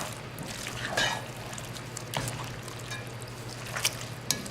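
Pasta being stirred through a thick cream sauce in a pan: wet, sloppy liquid stirring, with a few light clicks of the utensil against the pan.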